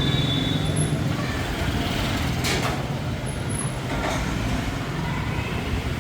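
City street traffic: motor vehicle engines running steadily with a low hum, with a brief hiss about two and a half seconds in.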